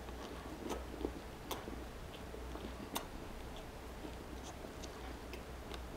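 Close-miked chewing of a mouthful of grilled cheese sandwich: soft, scattered wet mouth clicks at irregular intervals, one or two a second.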